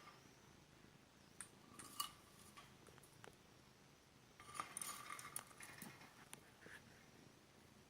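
Faint light clinks and tinkles, a few around a second and a half in and a longer cluster from about four and a half to six seconds in, over near silence.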